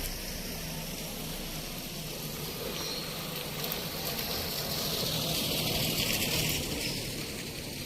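Car driving along a road: a steady engine hum under tyre and road noise, with a hiss swelling about five to six seconds in.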